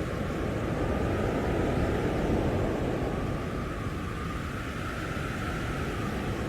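Blizzard wind blowing hard in gusts, a steady rush that swells about two seconds in, with a faint wavering howl above it.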